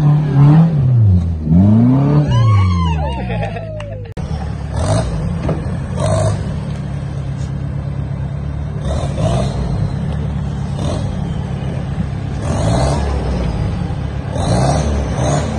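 Suzuki Jimny off-road engine revving hard, its pitch swinging up and down again and again as it claws through mud. About four seconds in there is a sudden cut to another 4x4's engine running steadily at low revs, with short noisy bursts over it.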